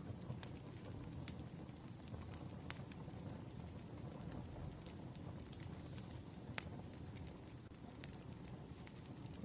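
Wood fire burning: a steady low rumble of flames with sharp crackles and pops every second or few.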